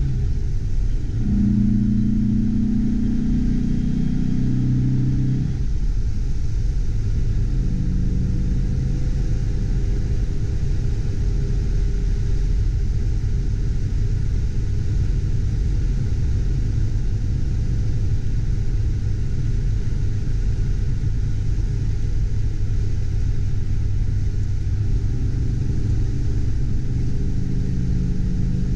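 Interior sound of a 1969 Porsche 912's air-cooled flat-four engine pulling at about 55 mph, over a steady road and tyre rumble. The engine note stands out strongest in the first five seconds or so, then settles into an even cruise.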